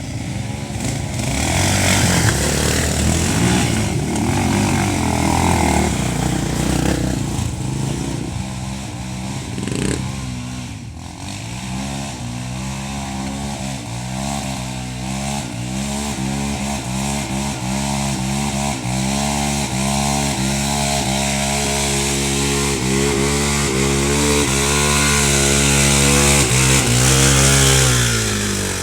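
Motorcycle engine running and revving, its pitch rising and falling again and again, then dropping away near the end.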